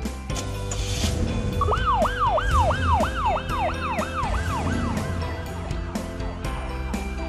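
Emergency-vehicle siren in a fast yelp, its pitch swinging up and down about two and a half times a second. It starts about a second and a half in and fades out around five seconds, over background music.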